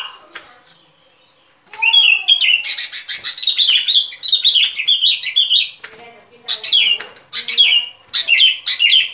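Bulbul calls played as a trapping lure: quick, bright chattering notes in a long run starting about two seconds in, then three short bursts near the end.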